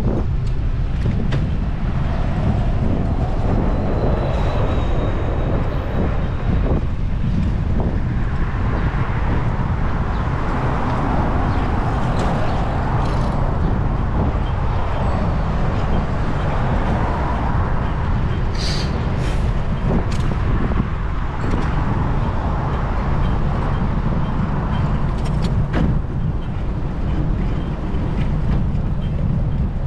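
Wind buffeting the microphone of a camera on a moving bicycle, with city traffic going by.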